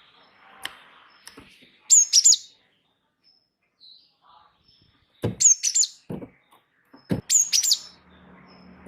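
A gelatik wingko songbird calling in short clusters of two or three sharp, high, falling notes, three times with pauses between. A few low knocks come in with the later calls.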